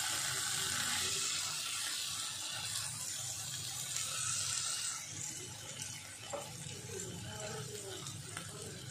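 Chicken pieces sizzling as they fry in a nonstick pan while being stirred with a silicone spatula. The sizzle is strongest for the first five seconds or so, then dies down, with a few light knocks from the spatula.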